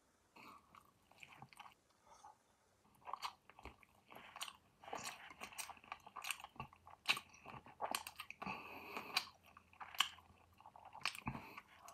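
A person chewing and eating roast chicken, with wet mouth sounds and irregular small smacks and clicks. Sparse for the first few seconds, then busier.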